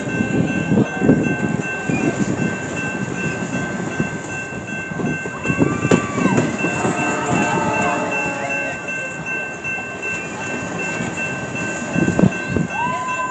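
CPKC Holiday Train rolling past close by: a steady rumble of passing cars with wheels knocking over rail joints. Two steady high tones run throughout.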